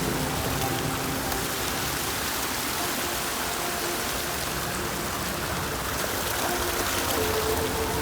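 Steady rain falling, an even hiss of drops, with a few faint held tones underneath.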